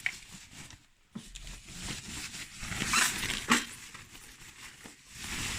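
Packaging being handled as an espresso machine is unpacked: irregular rustling and scraping of cardboard and plastic, loudest a few seconds in.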